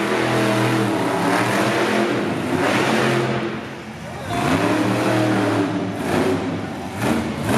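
Monster truck engine revving hard, its pitch climbing and falling. It eases off about three and a half seconds in, then revs up again about a second later.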